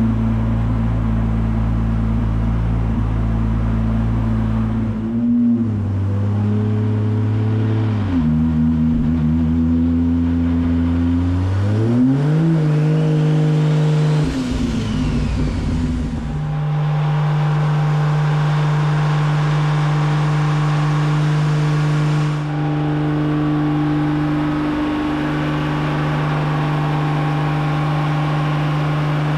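Volvo race car's engine running on a chassis dyno: its pitch steps down twice, rises smoothly about twelve seconds in, then holds steady for the second half.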